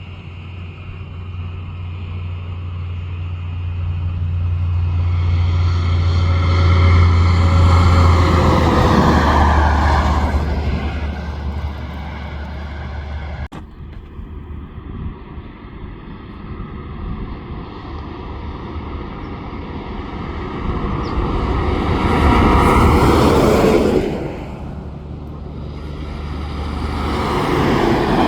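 Heavy trucks driving past one after another, each engine and tyre sound building as it approaches and fading as it goes. The loudest passes come twice, the second cutting off abruptly, and another truck approaches near the end.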